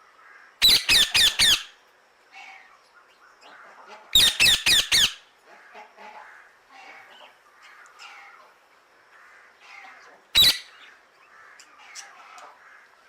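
Male ringneck parrot giving loud, harsh squawks: a rapid run of four, a second run of five about three seconds later, then a single squawk near the end, with quieter chatter between the runs.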